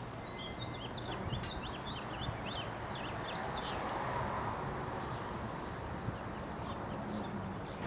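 Several small birds chirping in quick, short, high notes, thickest in the first three seconds and sparser afterwards, over a steady low background rumble.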